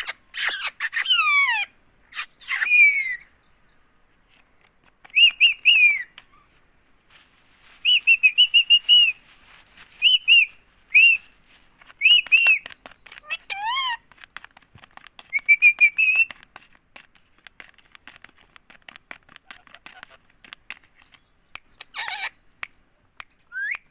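Indian ringneck parakeet calling in bursts of short, high-pitched chirps and whistles, including a quick run of repeated notes and a few sliding whistles.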